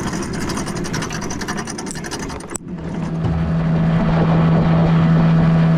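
Motorboat engine running under way. About two and a half seconds in there is an abrupt change to a steadier, louder engine hum.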